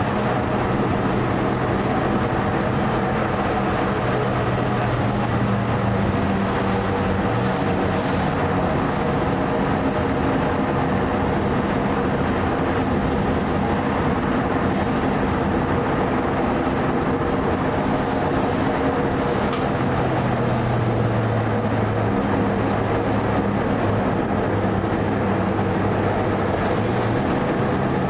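Mitsubishi Lancer Evo IV's turbocharged 2.0-litre four-cylinder engine running hard on track, heard from inside the cabin over a steady rushing noise, its pitch shifting a few times as speed and gears change.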